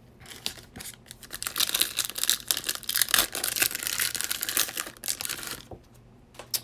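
Trading card pack wrapper being torn open and crinkled: a dense crackling from about half a second in that dies away near the end, with a sharp click just before it ends.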